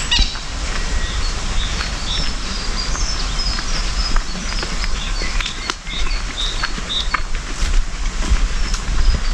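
Small birds chirping and singing in a run of short high notes, over a steady low rumble.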